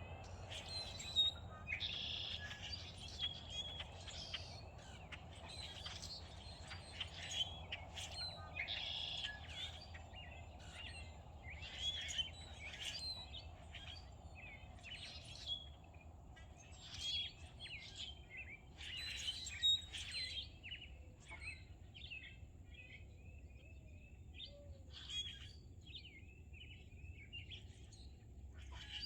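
Several wild birds singing and chirping at once, a steady stream of short high chirps and trills that thins out somewhat in the last third, over a faint low steady hum.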